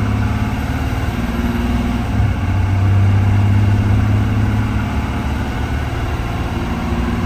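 2020 Blue Bird Vision school bus engine running steadily, a low hum that shifts slightly in pitch a second or two in.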